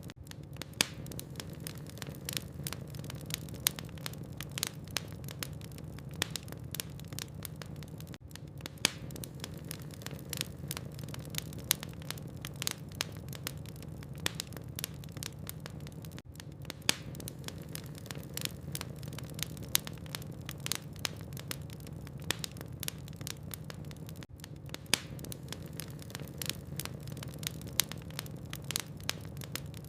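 Burning logs in a fireplace crackling, with frequent irregular sharp snaps and pops over a low steady hum.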